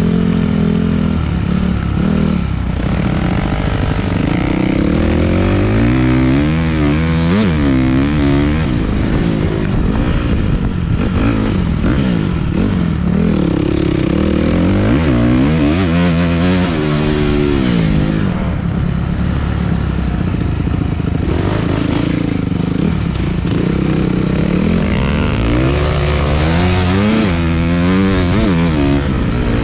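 Dirt bike engine under way, its pitch climbing and dropping again and again as the rider accelerates, shifts and backs off.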